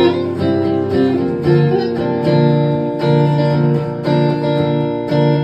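Guitar strumming a chord progression as the opening of a live song, with a steady rhythm and a clear bass note under each chord.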